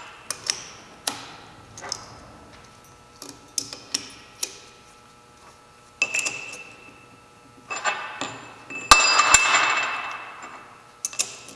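Small steel parts clinking, tapping and knocking together on a workbench: differential setup bearings and shims being handled and fitted on the carrier. A louder metallic clatter with ringing comes about nine seconds in.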